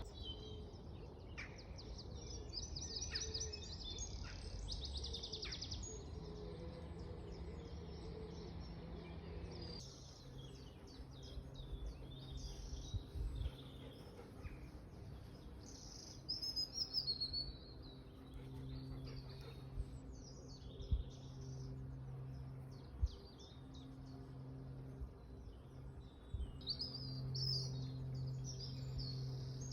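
Songbirds singing in the open, a mix of short chirps and quick trills, over a soft background hiss. A faint low steady hum joins about ten seconds in.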